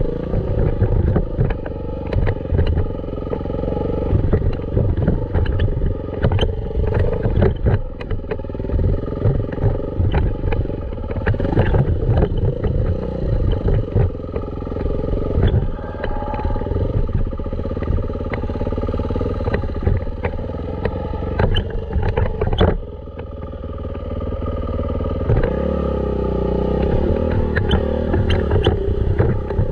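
Dirt bike engine running while being ridden over a rough trail, with frequent sharp knocks and rattles from the bike. The engine note drops suddenly about 23 seconds in, then builds back up gradually.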